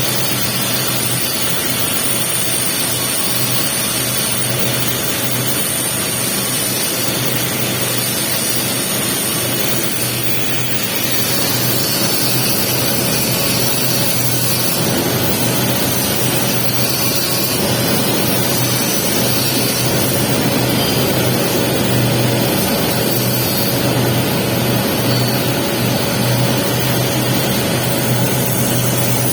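Electric arc welding the capping pass on a 6G pipe joint: a steady sizzle of the arc over a low hum. It dips briefly about ten seconds in.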